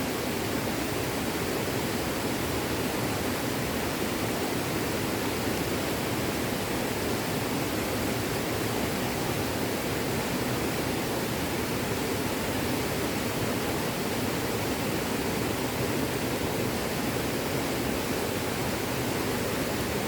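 Small stream flowing, a steady even rush of running water.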